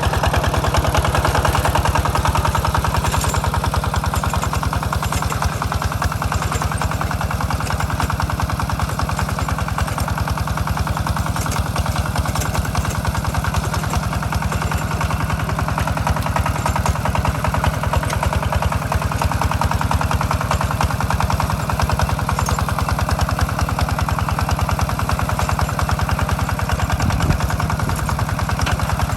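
Two-wheel walking tractor's engine running steadily with rapid, even firing pulses.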